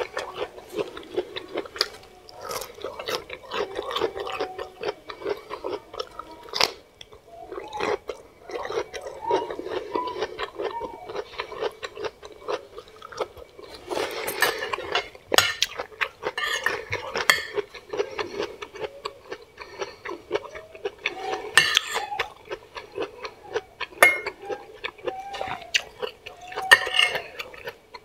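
Close-miked chewing and wet mouth sounds of someone eating soft boiled vegetables and rice, with scattered sharp clicks of metal forks against a ceramic plate.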